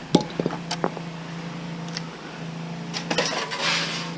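Scrap metal pieces being handled and sorted, knocking and clinking a few times in the first second, then a scraping rustle about three seconds in, over a steady low hum.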